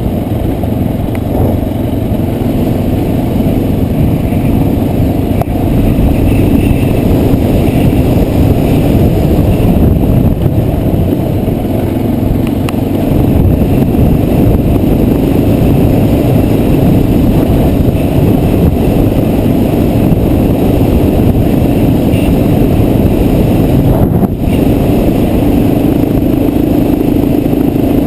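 Trail motorcycle engine running under way over rough ground, loud and continuous with small throttle changes.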